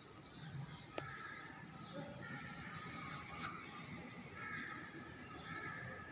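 Faint chirping of small birds, repeated short high calls, over a low steady background rumble.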